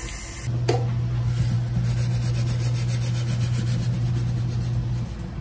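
Epson label printer running as it prints and feeds out a label: a steady low motor whir that stops briefly near the end and starts again.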